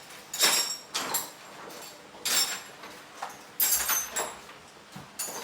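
Several short clattering, rattling knocks of handled metal objects, with a light metallic ring. The loudest come about two and a half seconds in and near four seconds in.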